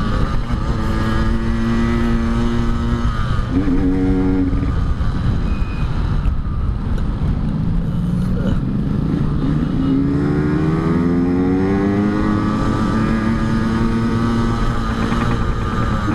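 Yamaha RX-King two-stroke single-cylinder engine under way, holding steady revs at first, easing off around six seconds in, then climbing in pitch from about nine seconds in before levelling off.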